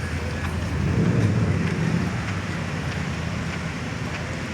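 Traffic on a wet city street: a vehicle's low rumble swells about a second in and eases off, over a steady hiss.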